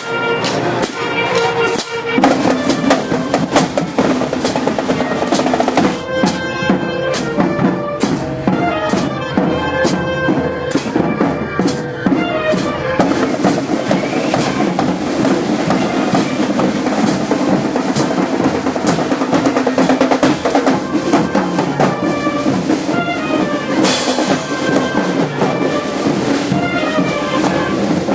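A band playing, with drums striking steadily over sustained pitched instruments.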